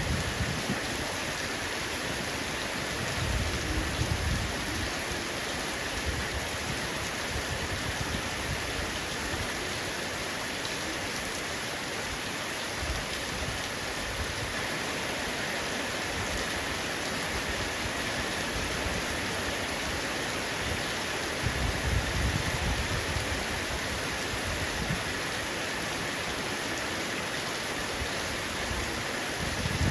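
Heavy rain pattering on a roof in a steady, even hiss. Two short low rumbles rise under it, about four seconds in and again past twenty seconds.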